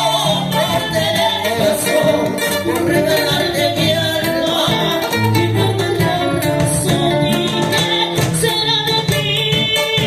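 Live son band playing, with a lead voice singing over plucked guitar and percussion.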